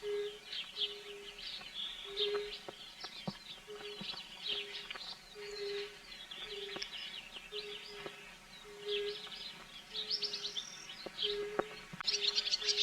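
Birds chirping and trilling together, with a short low steady note repeating about twice a second under the chorus, and a few sharp clicks.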